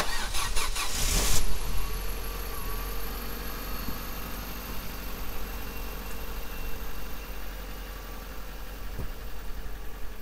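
Car engine sound effect: a loud rush in the first second or so, then the engine running steadily and growing a little quieter, as of the car pulling away.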